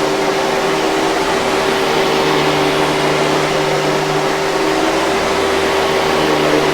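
Hoover 5000 Series canister vacuum cleaner running steadily: an even rush of air with a constant motor hum.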